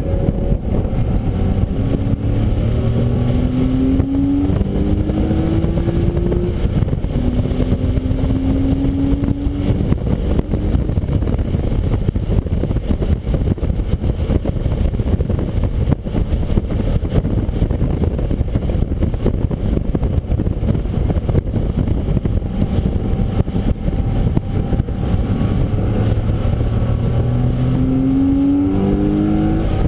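A car engine accelerating hard through the gears, its pitch rising in steps near the start and again near the end, over a loud, steady rush of wind and wet-road noise from the car at speed.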